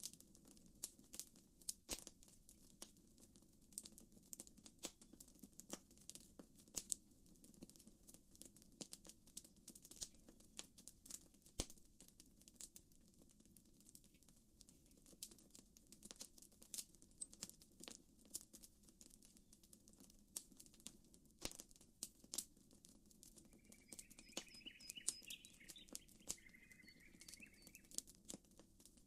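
Campfire crackling, with frequent irregular sharp pops over a low, steady rumble. A bird chirps briefly near the end.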